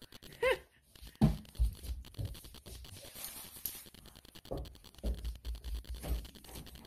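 Roasted seaweed snack sheets being chewed: soft crunching and crackling with scattered low thumps. A short giggle comes about half a second in.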